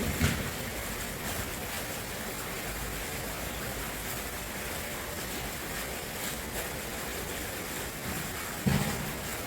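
Steady rush of flowing water, with a brief low thump just after the start and another near the end.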